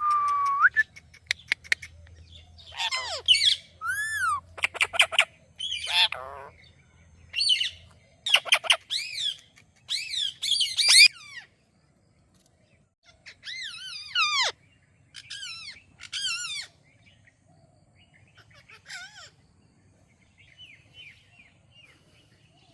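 Indian ringneck parrot calling: a rising whistle, then a run of short, shrill squawks and chirps that swoop up and down in pitch. The calls come thickest in the first two-thirds and give way to a few faint ones near the end.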